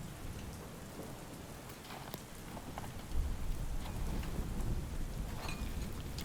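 Steady rain falling, with scattered sharp drops landing close by. About halfway through a low rumble of thunder comes in and carries on.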